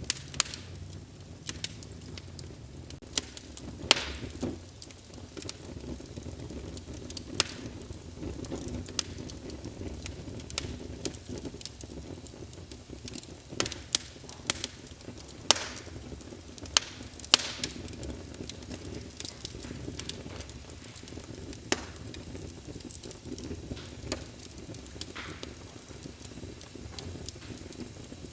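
Wood fire burning in a fireplace: a steady low rumble and hiss with irregular sharp crackles and pops, a few of them louder than the rest.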